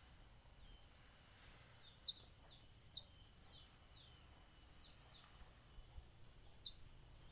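Small birds chirping: three sharp, high, downward-sweeping chirps about two seconds in, a second later, and near the end, with fainter chirps of the same shape in between. A steady high-pitched tone runs underneath.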